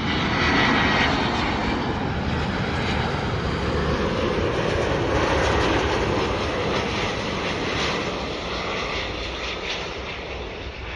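Airbus A350-900's Rolls-Royce Trent XWB turbofans on final approach to land: a loud, steady jet rumble and hiss that eases off over the last few seconds as the airliner passes.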